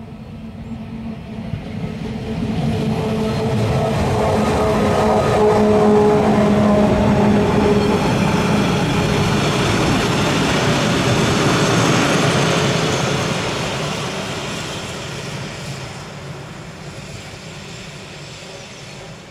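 RhB Ge 6/6 II electric locomotive with a train of freight wagons passing and pulling away over the rails. It swells to a loud rumble with a steady low hum in the first half, then fades slowly as the train draws off.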